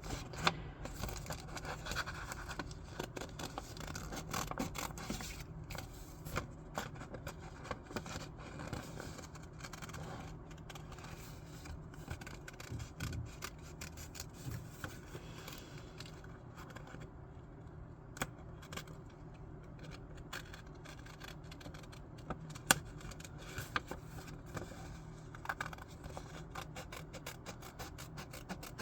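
Scissors cutting through sketchbook paper: a long run of short snips with the paper scraping and rustling, and one sharper snip about two-thirds of the way through.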